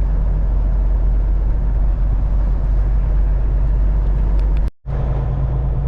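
Steady low drone of a Kenworth semi truck's engine and road noise, heard from inside the cab while cruising at highway speed. The sound drops out briefly about four and three-quarter seconds in, then resumes.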